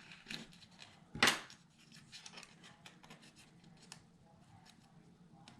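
Paper and cardstock die-cut pieces being handled and slid about on a scrapbook layout: light rustles, scrapes and small clicks, with one sharp tap about a second in.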